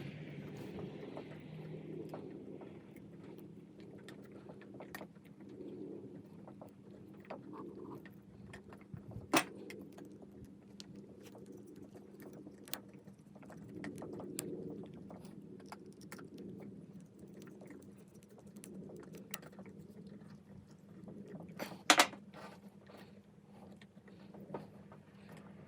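Small clicks, taps and light scraping of a screwdriver and copper wires being worked into a plastic screw terminal block on a metal table, with a sharp click about nine seconds in and a louder double click about 22 seconds in.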